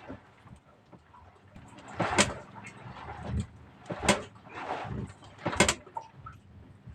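Water slapping and splashing against the side of a small fishing boat in short swishes every second or two, over a faint steady low hum.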